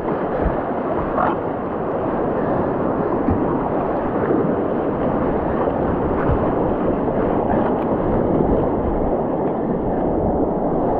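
Rushing creek water: a steady, dense wash of river noise close to the microphone.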